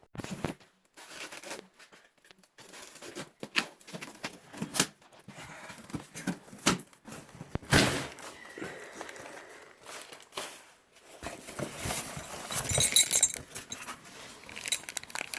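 Metal tools and parts being handled and set down: scattered knocks and clicks, with a run of metallic clinking about twelve seconds in.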